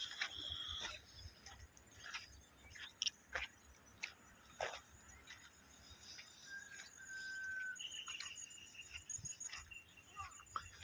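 Birds chirping and calling, faintly: scattered short, sharp chirps, and a few held whistled notes, one low note held for about a second just past the middle, followed by a higher one.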